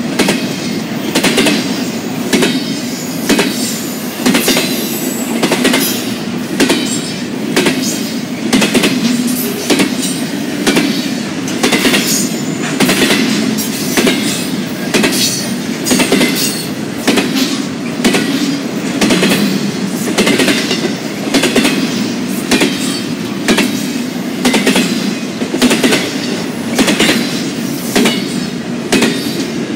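Double-stack intermodal freight train's well cars rolling past on steel wheels: a steady rumble under a regular series of sharp wheel clacks over the rail joints.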